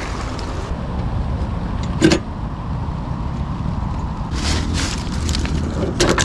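Steady hiss of heavy rain, with a few knocks and rattles from fishing rods and gear being tied onto a motorcycle: one about two seconds in, a cluster near the middle and one more near the end.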